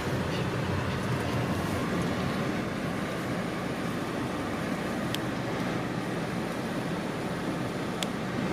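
Steady, even noise of a running car, with two faint clicks about five and eight seconds in.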